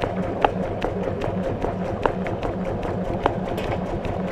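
Maytag washing machine running mid-cycle, heard from inside the tub: churning water with a regular low pulse about four times a second and scattered sharp clicks.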